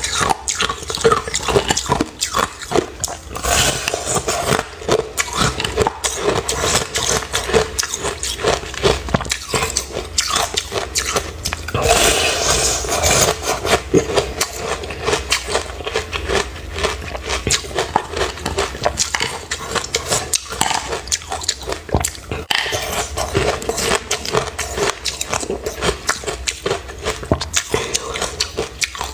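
Close-miked chewing of crunchy ice, a dense, irregular run of crunches and cracks from teeth breaking up ice in the mouth.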